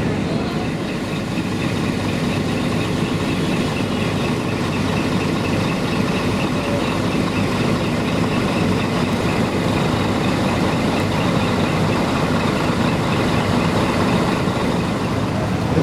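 Several tractor engines idling steadily together.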